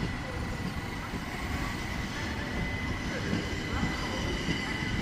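Electric train at a station, a steady rumble with a thin, steady high whine over it.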